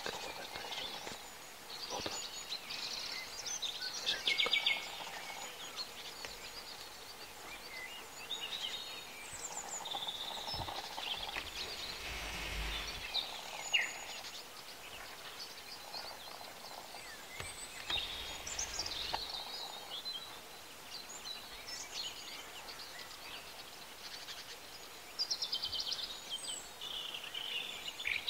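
Several small birds singing, with repeated chirps and trills throughout over a faint background hiss, and a brief low rumble about halfway through.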